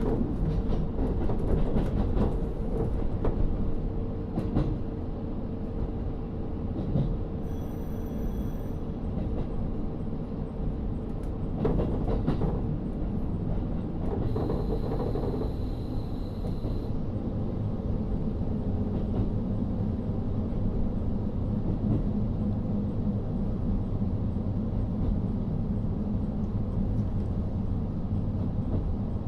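Interior running sound of a KiHa 40 diesel railcar with an N-DMF13HZB diesel engine: a steady rumble of engine and wheels on the rails. There are rail clicks in the first few seconds, and two brief high-pitched tones, about a third of the way in and again near the middle.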